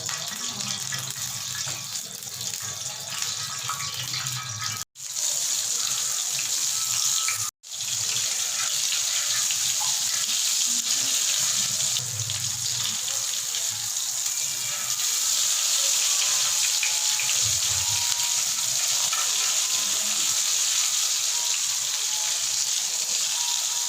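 Potato patties (aloo tikkis) sizzling as they shallow-fry in hot oil: a steady high hiss that drops out twice for a moment, about five and seven and a half seconds in.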